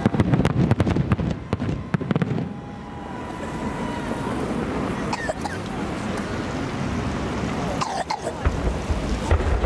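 Fireworks: a rapid string of bangs and crackling for about the first two and a half seconds, then a few scattered single bangs over a steady background of crowd voices.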